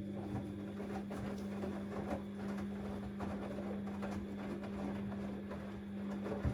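Siemens Extraklasse XLS 140 A front-loading washing machine in a 90 °C boil wash, its drum turning the wet load with irregular soft knocks and swishes over a steady hum.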